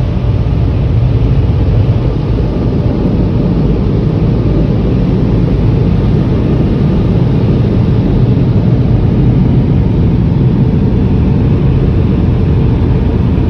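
Tunnel car wash dryer blowers running, a loud steady rush of air heard from inside the car.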